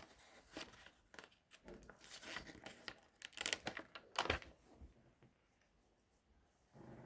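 LEGO pieces and plastic parts bags being handled: scattered light rustles and small plastic clicks for the first four seconds or so, then quiet.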